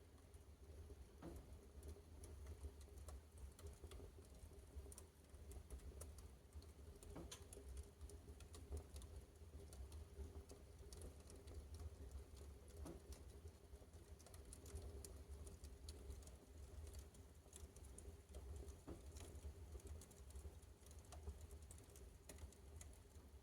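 Fire in a fireplace crackling faintly, with small irregular pops and ticks as it burns through leather hotpants, over a low steady hum.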